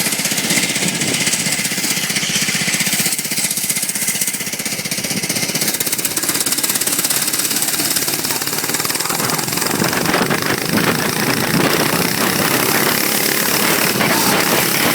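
Single-cylinder 5 hp Honda four-stroke engine on a mini bike running, a fast even chatter of firing pulses; it gets somewhat louder from about ten seconds in.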